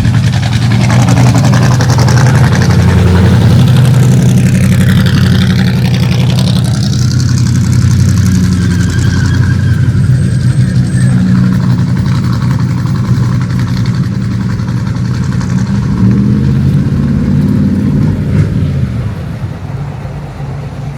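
Engines of several cars pulling in at low speed, a loud steady rumble that fades away near the end.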